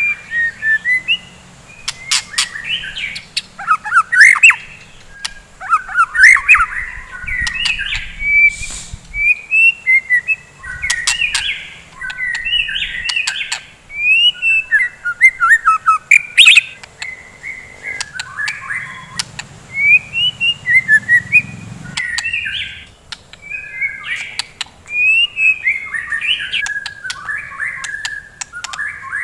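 White-rumped shama (murai batu) singing a continuous, rapidly varied song of whistled phrases, with sharp clicks mixed in.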